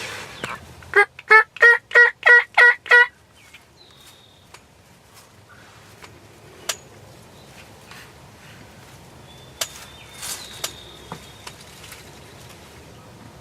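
Turkey yelping: a loud run of seven quick yelps, about three a second, the first one softer. A few faint clicks and thin high chirps follow.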